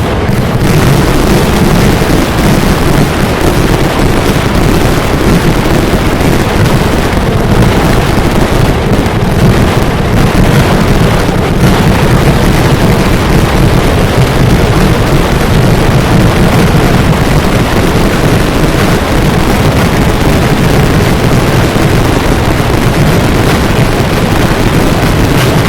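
A fireworks barrage, with bangs and shells going off so thickly that they merge into one loud, steady roar with no separate reports.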